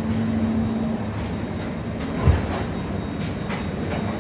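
Steady running noise of a moving passenger train heard from inside a coach, with a low hum in the first second and a single low thump a little over two seconds in.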